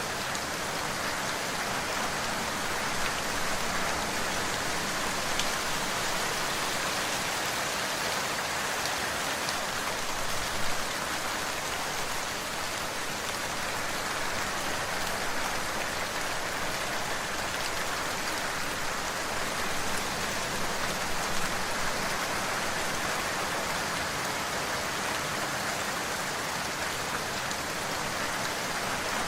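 Steady rain falling, an even hiss with scattered individual drop ticks, and a couple of slightly louder drop hits a third and two-thirds of the way through.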